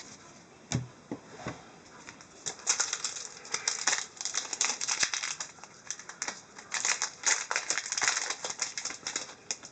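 Hockey trading cards being handled: a rapid, irregular run of crisp clicks and rustles as the cards are slid and flicked against one another. A few separate clicks come first, then dense flurries from about two and a half seconds in until near the end.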